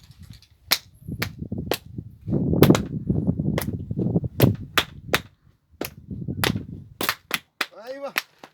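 Gusty wind rumbling on the microphone, with irregular sharp cracks one or two a second that come closer together near the end. A brief warbling tone sounds just before the end.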